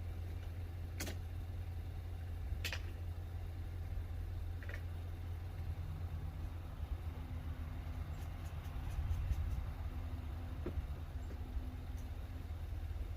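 Truck engine idling steadily with a low rumble, with three sharp clicks in the first five seconds.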